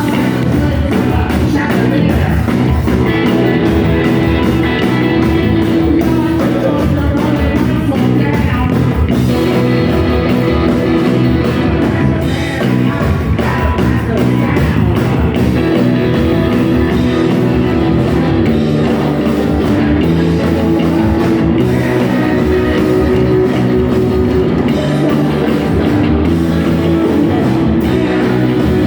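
Live rock band playing loud: electric guitars and a drum kit, with singing.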